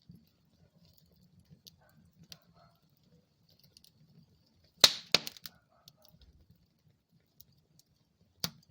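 Wood fire burning in a fireplace, crackling with scattered small clicks over a faint low rumble. A loud burst of sharp pops comes about five seconds in, and another single pop near the end.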